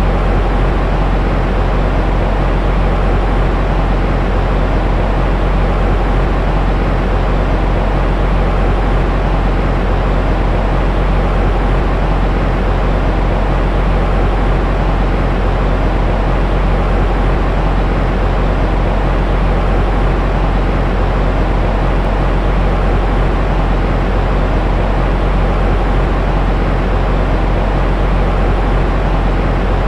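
Steady, unbroken white noise for baby sleep. It is a dense rumbling hiss that is heaviest in the deep bass and softer in the highs, played to mimic the sound of the womb.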